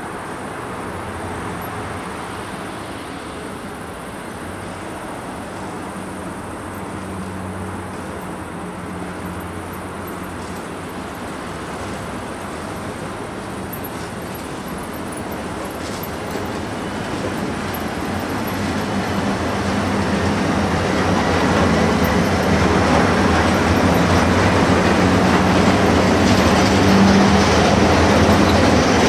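Electric freight train led by an SBB Re 6/6 locomotive and a second electric locomotive passing close by, with a steady low electric hum. The rumble and clatter of loaded tank-container wagons rolling past grows louder in the second half.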